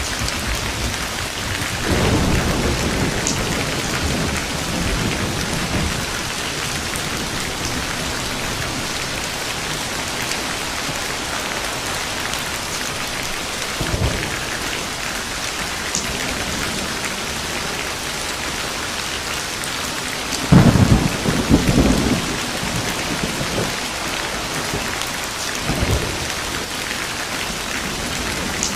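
Steady heavy rain falling, with rolls of thunder: a long rumble a couple of seconds in, a brief one midway, and the loudest, crackling roll about two-thirds of the way through.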